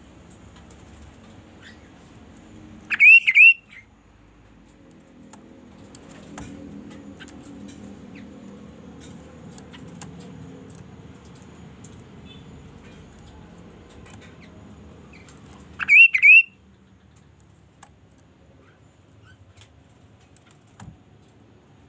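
Kaso-kaso (chestnut-capped babbler) calling: two loud bursts, each of about three quick rising whistled notes, the first about three seconds in and the second about sixteen seconds in.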